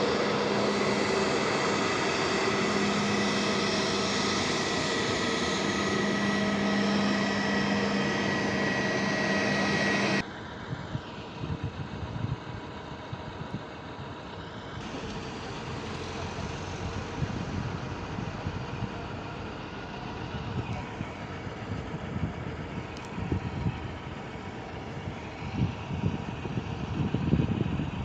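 Jet airliner engines running with a steady whine, cutting off abruptly about ten seconds in to a quieter, steady jet rumble. Low buffeting of wind on the microphone near the end.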